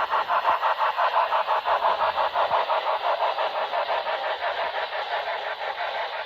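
HO-scale model train running, with an even, rhythmic pulsing sound about five or six beats a second that slowly grows quieter.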